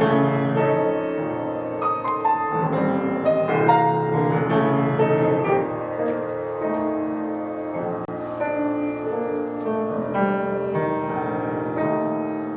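Piano playing a contemporary classical passage, with many separate notes and chords struck and left to ring, getting softer near the end.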